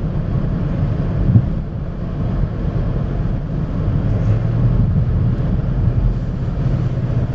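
Steady low rumble of a car driving, engine and road noise heard from inside the cabin, with a brief thump about a second and a half in.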